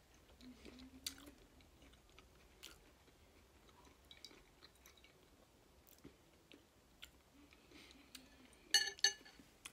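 Soft close-up chewing and wet mouth sounds, with faint clicks of a metal spoon ladling butter sauce over a boiled potato above a glass bowl. Near the end come two sharp, ringing clinks from the spoon.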